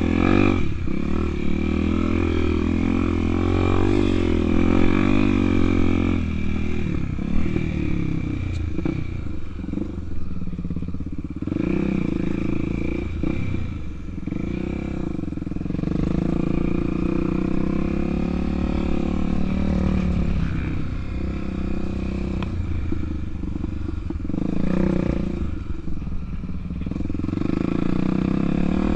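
Honda Tornado 250's single-cylinder four-stroke engine running hard off-road, revving up and down repeatedly as the rider works the throttle, with the bike rattling over rough ground.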